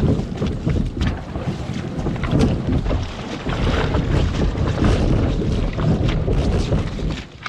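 Kayak hull knocking and scraping as it is dragged over river rocks, over rushing shallow water and heavy wind rumble on the microphone. The whole din drops away suddenly at the very end.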